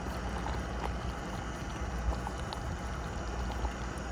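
A camp stove burner runs with a steady low rumble under a pot of potatoes simmering, with a few small pops as the extra water boils off.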